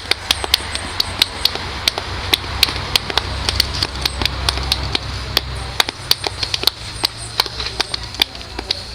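Sharp taps, several a second and unevenly spaced, over a steady low rumble.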